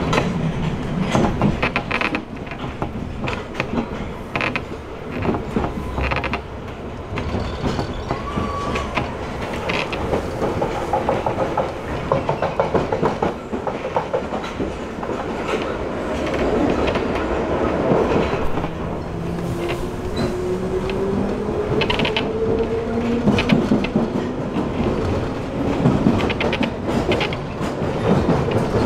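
London Underground train running along the track, heard from inside the carriage: wheels clattering over rail joints and points, with a whine rising in pitch about two-thirds of the way through.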